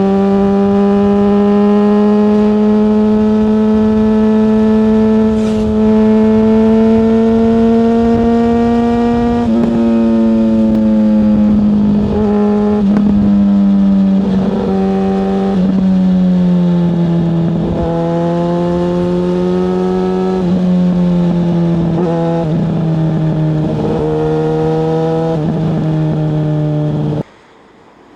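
Yamaha FZ6 S Fazer's 600cc inline-four engine under way. Its note climbs slowly for several seconds, then dips and rises again several times as throttle and gears change, and cuts off suddenly near the end.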